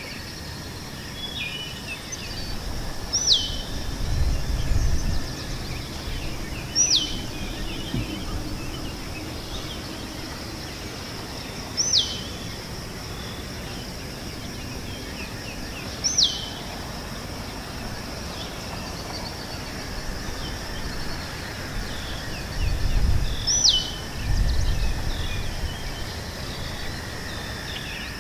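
A songbird repeating a short high whistle that slides down in pitch, five times at intervals of a few seconds, over a steady high drone of insects in a meadow. Wind buffets the microphone twice with a low rumble.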